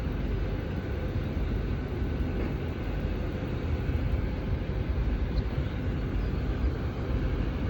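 Voyager diesel multiple unit running through the station without stopping: steady rumble of underfloor diesel engines and wheels on the rails.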